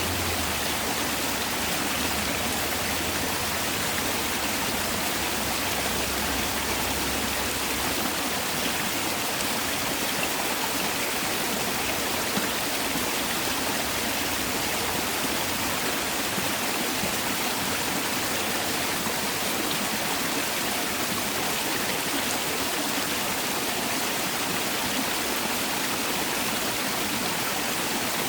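Mountain valley stream water flowing, a steady, even rushing.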